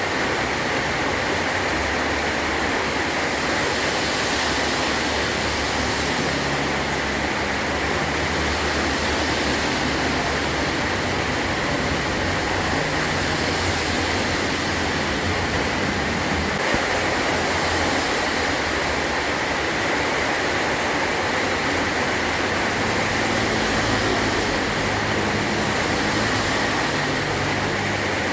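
Heavy rain drumming steadily on a metal roof, an even, unbroken rush with no thunder.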